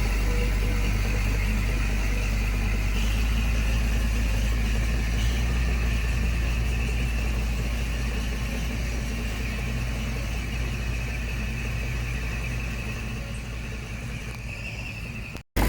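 Heavy construction machine's diesel engine running steadily at low revs, easing slightly near the end before the sound cuts off suddenly.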